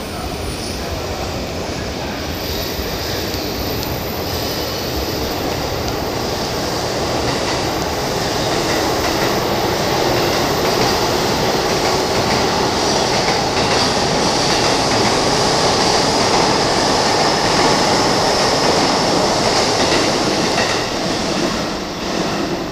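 Electric commuter trains, among them a JR E233-series Keihin-Tohoku Line train, running past on the rails: a steady rumble of wheels and motors with a high whine over it, growing louder to a peak about two-thirds of the way through and easing near the end.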